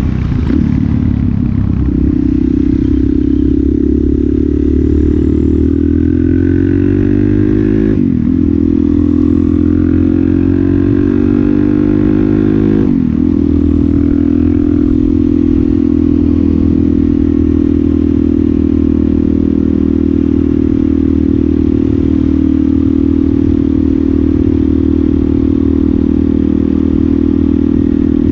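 Suzuki DRZ400SM's single-cylinder four-stroke engine running through a Yoshimura exhaust. Its pitch dips briefly twice, about eight and thirteen seconds in, then holds even.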